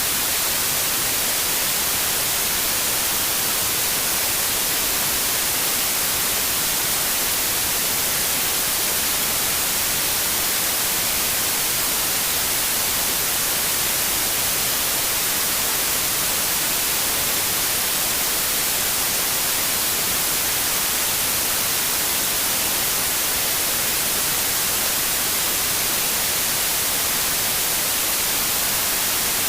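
Steady, unbroken white noise: an even hiss that is brightest in the high frequencies, with no changes or events.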